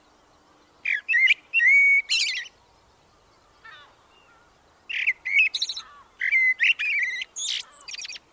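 A songbird singing in two bursts, each a run of clear whistled notes mixed with quick high twittering. The first burst comes about a second in, the second about five seconds in.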